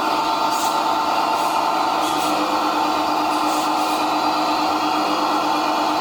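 1/14-scale SFROG E400 RC excavator running under remote control: a steady mechanical whine from its motor and pump, with a few faint light ticks.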